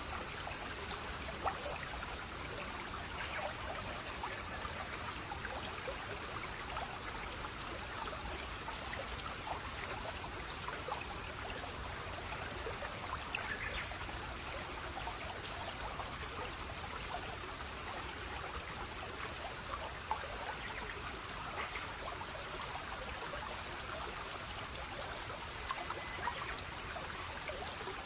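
Running water trickling and splashing steadily, like a small stream, with small splashes and drips scattered through it.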